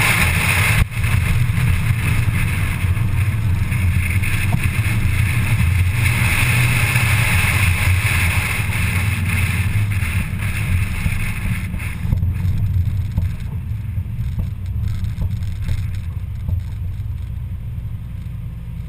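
1987 Audi 4000S race car's engine running at low speed with road and wind noise, easing off and growing quieter over the last several seconds as the car slows. A brief dropout about a second in.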